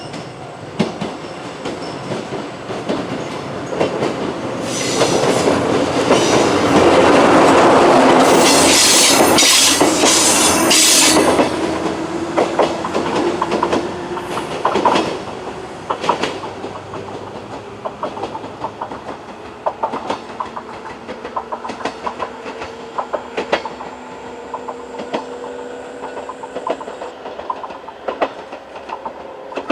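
103 series electric train passing over a level crossing: the pass is loudest about five to eleven seconds in, then eases to a lighter run of wheel clacks over the rail joints, with a faint whine slowly rising in pitch.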